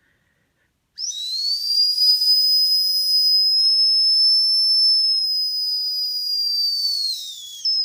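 A small cheap whistle made as a fake turbo or exhaust whistle for an RC car, blown by mouth. It sounds one loud, steady, high-pitched note for about seven seconds, starting about a second in, sweeping up as it starts and sagging down in pitch near the end as the breath runs out.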